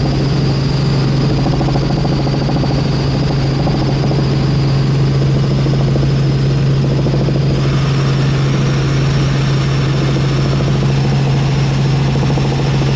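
Helicopter in flight: a loud, steady drone of engine and rotor with a thin high whine over it. About seven and a half seconds in, a hiss rises over it.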